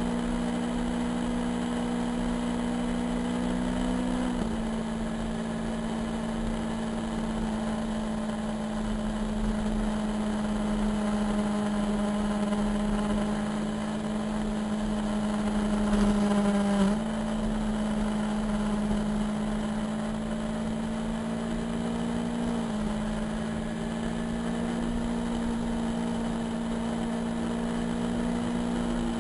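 Motorcycle engine running at a steady cruising speed, its pitch stepping slightly a few times. About 16 seconds in it runs a little louder and higher, then drops back.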